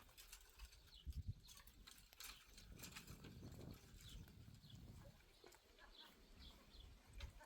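Near silence: faint outdoor ambience with scattered soft clicks and a couple of low knocks about a second in.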